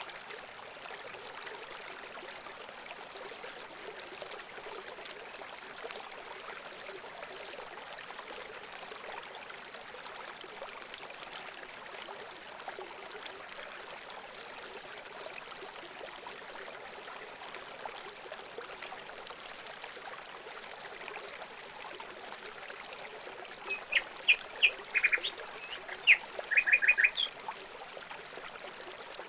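Running water trickling steadily. Near the end a bird gives a quick series of loud, sharp calls, the last few in a fast run.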